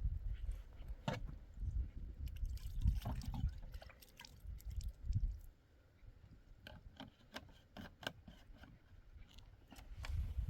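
Water trickling and splashing as hands are washed, with scattered clicks and knocks of handling.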